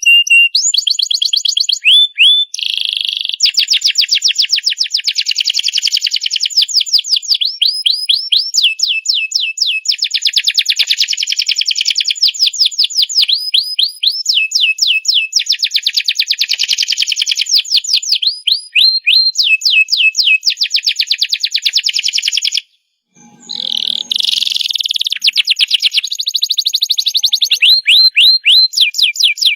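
Domestic canary singing a long, near-continuous song of very fast trills and rolling, gliding phrases, high-pitched, with a brief pause about three quarters of the way through.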